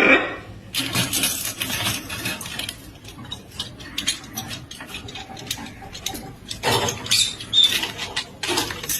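Rapid light clicking and scratching, with a few brief squeaks near the end.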